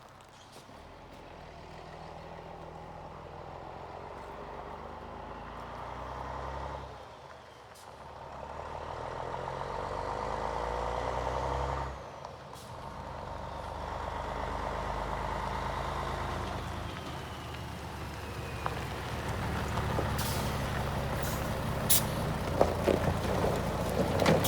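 Scania P112 truck's diesel engine pulling, rising in pitch and dropping back twice like gear changes, with air-brake hisses and sharp clicks near the end.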